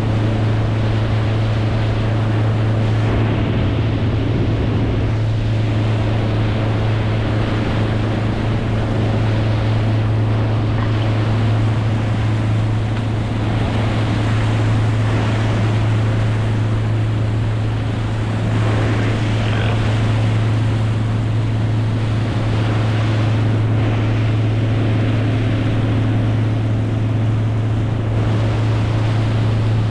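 A boat motor running at a steady speed: a constant low drone. Water and wind noise rush over it throughout.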